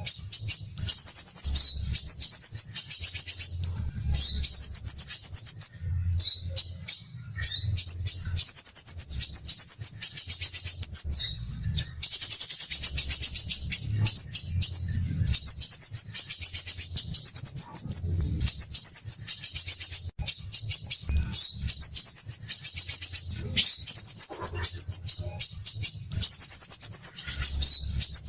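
Crimson sunbird singing its song of rough, dense rapid trills. The high, fast trilled phrases last a second or two each and come one after another with short breaks.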